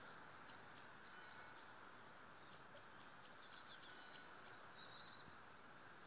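Faint small birds chirping: a string of short, high chirps with a brief warble about five seconds in, over a steady outdoor hiss.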